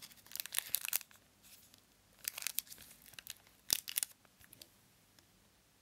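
Paper and cardboard of a handmade exploding box rustling and crinkling in short crackly bursts as it is handled, with a single sharp click a little past the middle.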